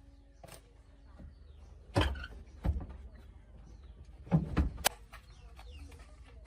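A few sharp knocks and clunks, about two seconds in and again around four and a half seconds, over a low steady rumble.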